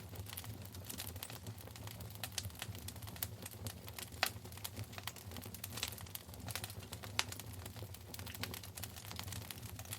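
Wood fire burning in a fireplace: a steady low rumble of the flames with irregular crackles and pops throughout, a few sharper pops standing out, one about four seconds in and one about seven seconds in.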